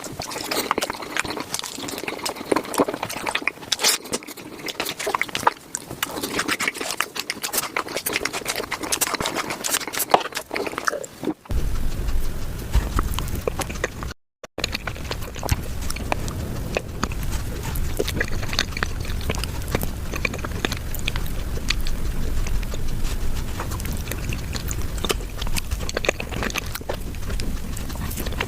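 ASMR eating sounds of cheesecake, close-miked and sped up five times: a fast, dense run of chewing, smacking and wet mouth clicks. About eleven seconds in it cuts to another eating clip with a low rumble under it, and the sound drops out for a moment a few seconds later.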